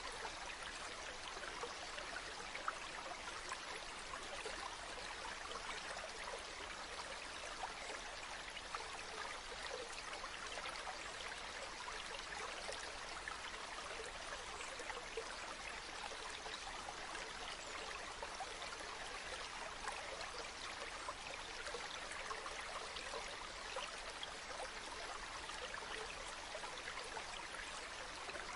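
River water flowing over stones: a steady babble, full of small splashes and trickles, that does not let up.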